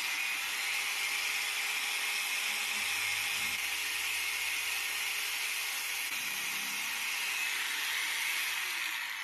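Small electric grinder running against a steel nail, grinding it down with a steady, high-pitched grinding hiss.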